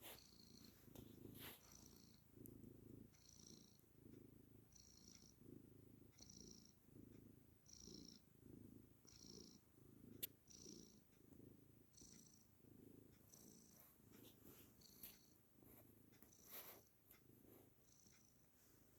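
A domestic cat purring, faint, a low rumble that pulses evenly, a little under two pulses a second. A single soft click sounds about halfway through.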